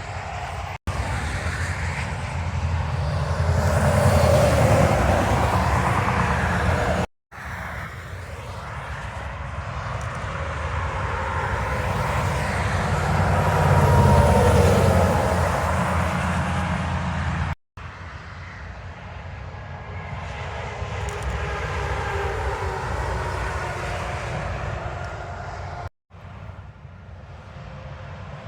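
Tractor-trailers going by on the interstate, their diesel engines and tyre noise swelling and fading in several passes, broken by abrupt cuts between short clips.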